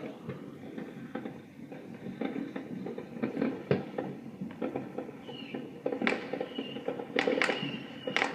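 Distant fireworks going off: a scattered, irregular string of sharp pops and crackles, coming thicker and louder over the last two seconds or so.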